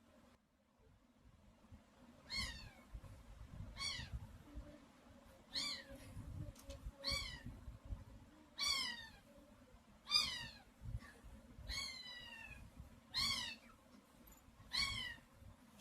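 Parrot mimicking a cat's meow: about nine short, falling meow calls, roughly one every one and a half seconds.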